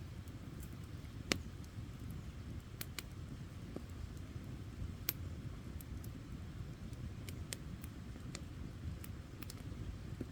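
Wood campfire burning: a steady low rumble of flame with scattered sharp crackles and pops from the burning wood, the loudest about a second in.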